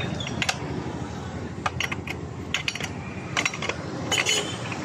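Scattered sharp metallic clicks and clinks, about a dozen at uneven intervals, from metal tools and parts being handled during repair work on a scooter, over a steady low rumble of background traffic.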